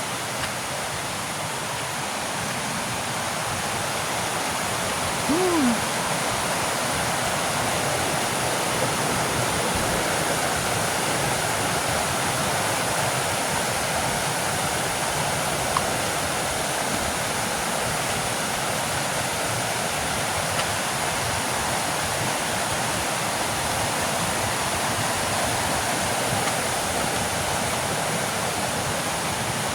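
Waterfall: water pouring and splashing in a steady, even rush, with one brief falling tone about five seconds in.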